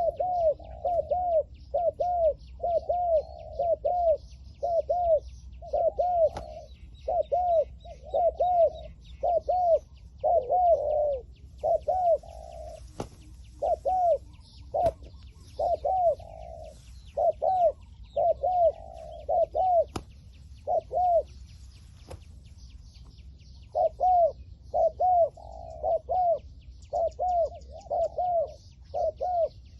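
Spotted doves cooing: a long run of short, arched coo notes, about two a second, with a pause of a couple of seconds about two-thirds of the way through. Faint chirping of small birds sits above them.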